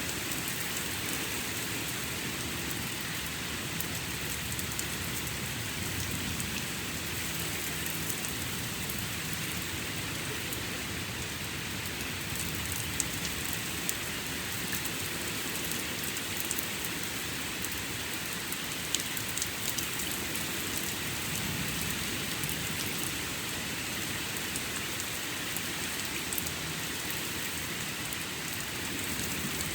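Steady heavy rain during a thunderstorm, pouring down and pattering on surfaces, with sharp drop ticks here and there.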